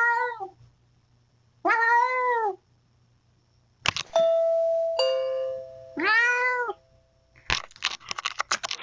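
A cat meowing three times, each meow drawn out and rising then falling, about two seconds apart. About four seconds in, a sharp clack is followed by a ringing, chime-like tone that lingers for about three seconds. Near the end comes a quick run of clicks or taps.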